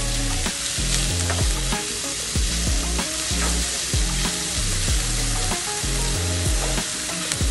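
Finely chopped onion, garlic, ginger and green chilli sautéing in oil in a nonstick frying pan: a steady sizzle, with a spatula stirring the mixture and scraping across the pan over and over.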